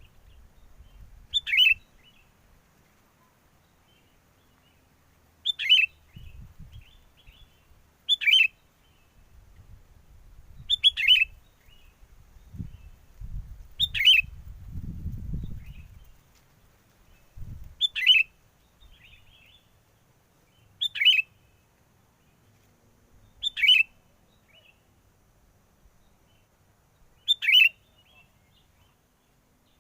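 Sooty-headed bulbul giving a short, sharp call about every three seconds, nine calls in all. Gusts of wind rumble on the microphone between the calls in the first half.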